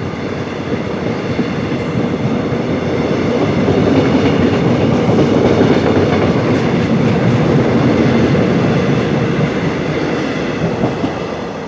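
Mugunghwa passenger train pulling out of the station, its cars rolling by on the rails. The sound swells to its loudest in the middle and eases off toward the end.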